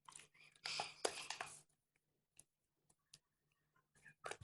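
Slime being squished and pulled in the hands, making sticky crackling and clicking noises: a cluster of squelchy crackles in the first second and a half, then a few single clicks, and more crackling near the end.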